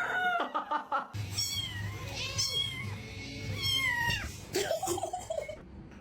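A cat meowing: three high-pitched, falling meows in the middle, over a steady low hum.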